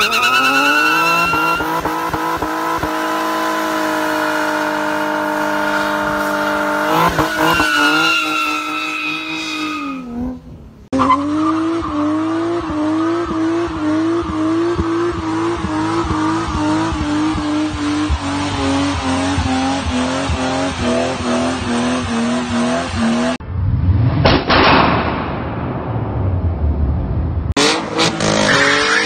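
A run of high-performance car engine clips. First an engine is held at high revs and then drops off. Next an engine sits at the rev limiter under launch control, its note bouncing about twice a second. Then a car rushes past with its pitch falling, and another loud engine starts near the end.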